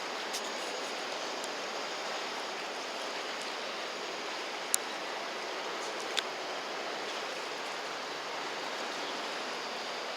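Steady rushing outdoor river-bank noise with no clear engine tone, broken by two sharp clicks about five and six seconds in.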